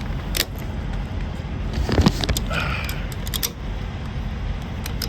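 Flatbed trailer strap winch being tightened with a winch bar: a few metallic clicks and one heavier clank about two seconds in, over a steady low rumble.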